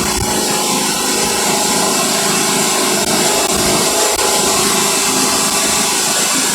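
Wood-Mizer band sawmill running steadily, sawing a walnut log.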